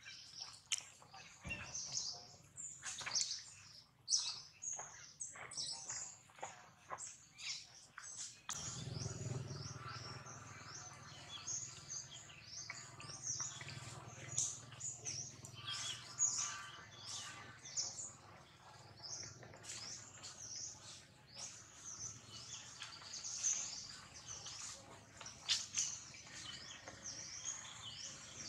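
Small birds chirping in many short, high calls, with a steady low hum coming in about eight seconds in.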